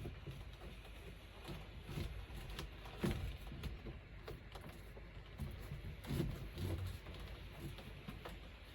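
Scattered knocks and clunks of things being handled during installation work, with the loudest knocks about three seconds and six seconds in.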